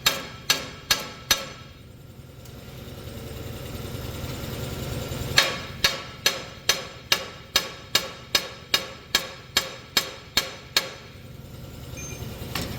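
Hammer blows on steel, ringing: four quick strikes, a pause of about four seconds, then a steady run of about a dozen strikes at roughly two and a half a second, over a steady low hum.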